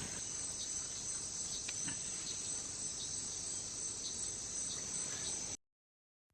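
Amazon rainforest insect chorus: a steady, high-pitched buzzing and trilling of crickets and other insects, with a few faint chirps over it. It cuts off abruptly near the end.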